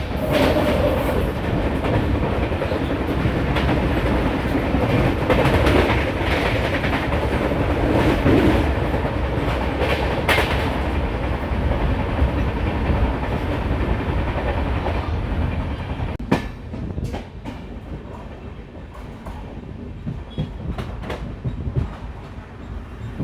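Passenger train running at speed, heard from aboard: a steady rumble of wheels on rails with clickety-clack over the rail joints. About sixteen seconds in the rumble drops quieter and the separate clacks stand out.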